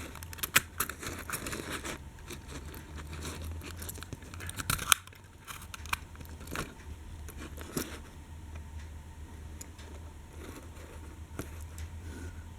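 Small diecast toy train wagons being handled: scattered clicks and light knocks with rustling, the sharpest about half a second in and just before five seconds in, over a low steady hum.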